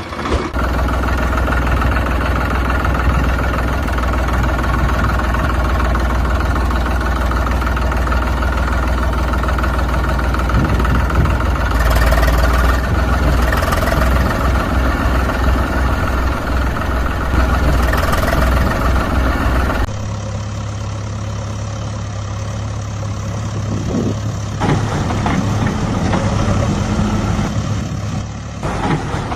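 A heavy vehicle engine running steadily. About twenty seconds in it changes abruptly to a different, steadier engine hum.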